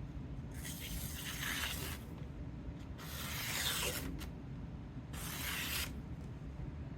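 A freshly sharpened 12-inch Henckels chef knife slicing through a sheet of paper three times, each cut a hiss of about a second. It is a paper test of the edge straight off the 5000-grit plate, and the cuts run clean and smooth, the sign of a sharp edge.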